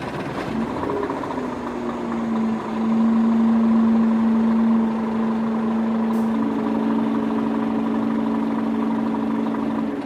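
Small electric gear motors of a handmade miniature truck and tractor, whining steadily. The motor grows louder for a couple of seconds as if under load, and a second, slightly higher motor tone joins about six seconds in.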